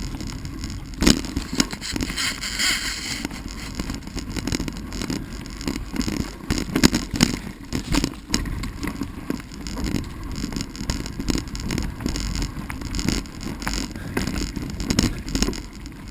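Bicycle rattling and knocking over a rough, rutted dirt trail, with a steady low rumble from the tyres and wind on the microphone. There is a brief hiss about two seconds in.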